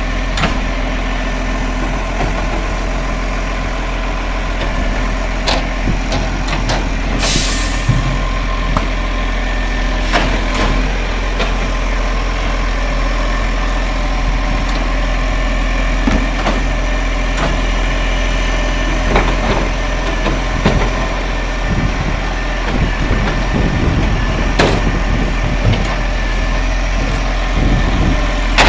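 Garbage truck's diesel engine running steadily, with a short hiss of air about seven seconds in and scattered clanks and knocks, more of them in the second half.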